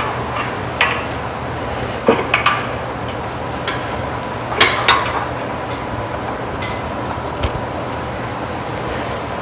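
Metal tools and parts clinking and clanking over a steady hum, with a handful of short sharp clinks: a cluster of three about two seconds in, a pair near the middle, and one near the end.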